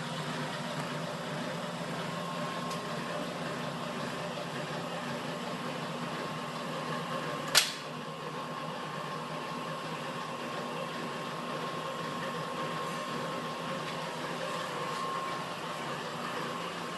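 Lockformer roll-forming machine running with a steady electric-motor hum, with one sharp metallic clack about seven and a half seconds in.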